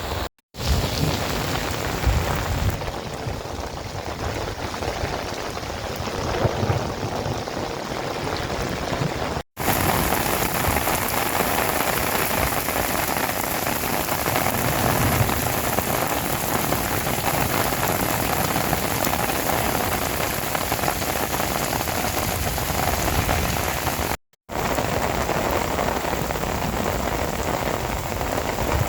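Heavy rain pouring down as a steady hiss, with a low rumble in the first few seconds. It is cut into several clips by brief silent gaps just after the start, about a third of the way in, and most of the way through.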